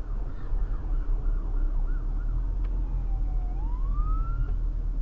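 Emergency-vehicle siren in a fast yelp of about three to four rises a second, which stops about halfway through and turns into one slower wail that dips and then rises. Steady low road rumble from a moving car runs underneath.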